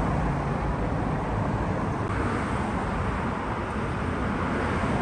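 Steady vehicle and road-traffic noise, an even rushing sound over a low rumble, without a change.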